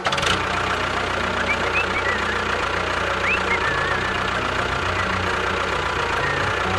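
An engine running steadily at idle, with a few short bird-like chirps over it.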